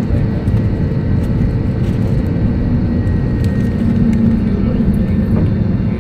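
Airbus A320neo engine and airframe noise heard from inside the passenger cabin: a steady low rumble with a faint steady hum.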